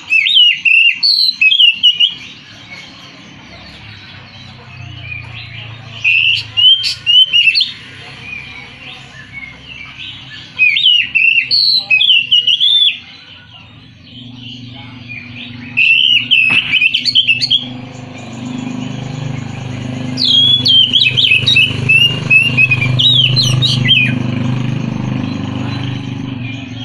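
Oriental magpie-robin (kacer) singing in five short bursts of quick, varied whistled phrases a few seconds apart. A low steady hum grows louder under the later phrases.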